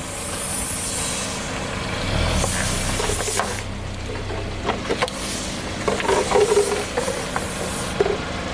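Car running and rolling slowly over objects, with a string of sharp cracks and crunches as they break under a tyre, thickest a few seconds before the end.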